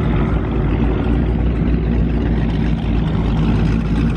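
Chevrolet ZR1's V8 engine running at a steady speed, a low, even engine note without revving.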